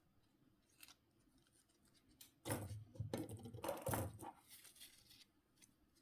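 Close-up handling of small phone parts: a single click, then about three seconds of rapid scraping and crackling.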